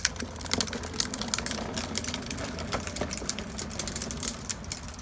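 Small ride-on car rolling down a driveway: its wheels make rapid, irregular clicking and rattling over a steady low rumble.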